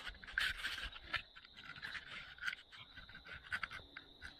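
Irregular scratching and rustling in dry leaves and forest litter, in short uneven strokes.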